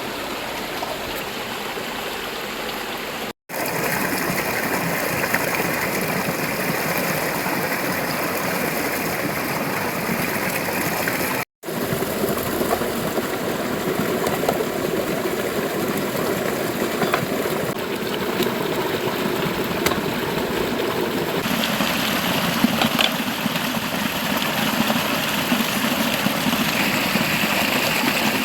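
A river running over rocks, a steady rush of water. The sound cuts out for a split second twice, and its tone shifts slightly after each cut and again later on.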